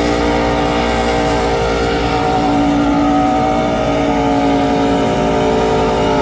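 NASCAR Truck Series race truck's V8 engine held at high revs during a post-race burnout, with the hiss of spinning tyres underneath.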